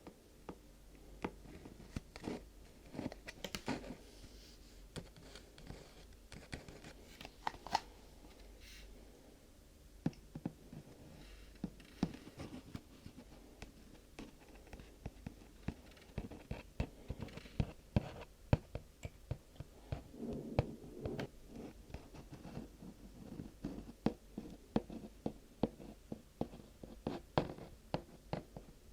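Close-miked ASMR tapping and scratching on household materials: many light, irregular taps and clicks with short stretches of soft rustling.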